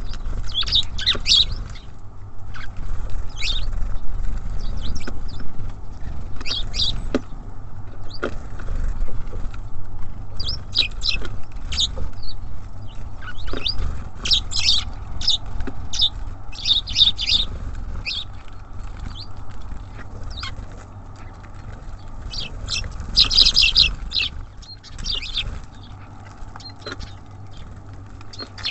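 Small songbirds calling in short, high chirps, some single and some in busier clusters, over a low steady rumble.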